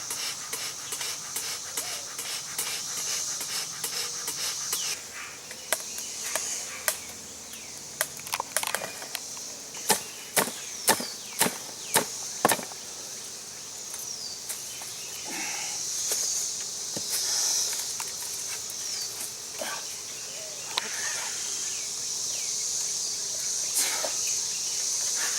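Sharp knocks and cracks on wood, scattered at first and then about half a dozen loud strikes close together around the middle. A steady high-pitched insect chorus runs underneath.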